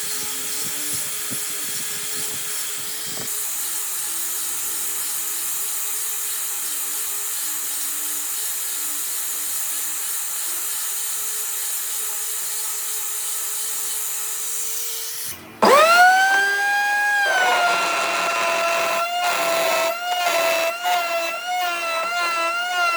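Electric power tool working wood with a steady hissing grind. About two-thirds of the way through it cuts out for a moment, then a motor spins up with a fast rising whine that levels off and wavers in pitch as it takes load.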